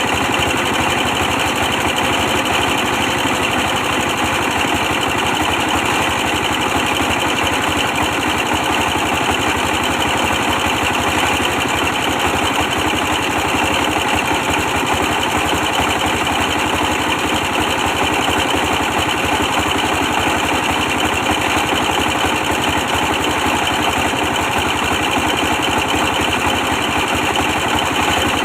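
A 24 hp stationary diesel engine running steadily while powering a brick press machine.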